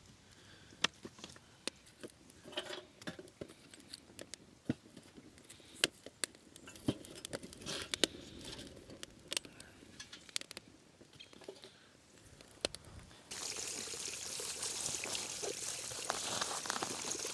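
Light clicks and knocks scattered through, then a steady hiss that starts suddenly about thirteen seconds in and lasts about four seconds.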